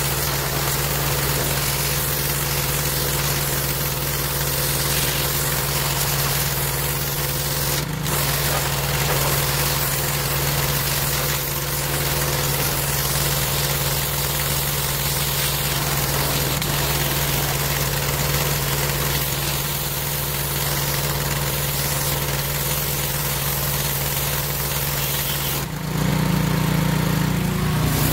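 Gas pressure washer engine running at a steady speed. The sound shifts and gets hissier for a couple of seconds near the end.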